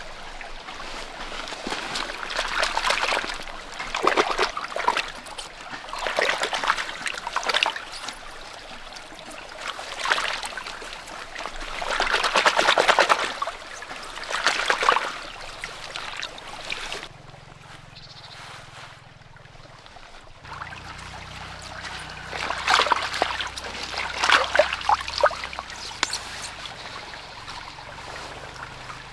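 Water splashing and trickling in repeated surges of a second or two, the sound of vegetables being rinsed by hand in a stream.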